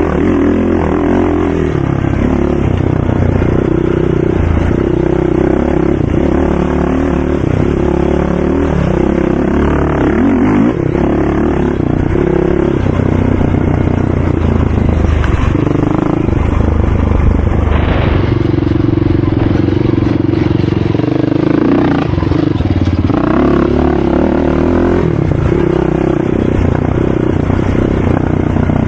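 Racing ATV engines running hard, their revs rising and falling continuously.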